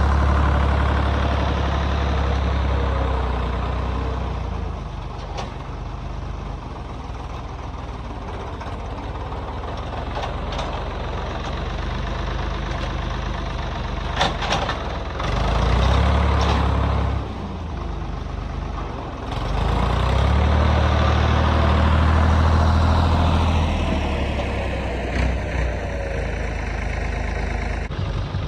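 A heavy vehicle engine running. Its deep rumble swells louder and eases off three times, with a few sharp clicks about halfway through.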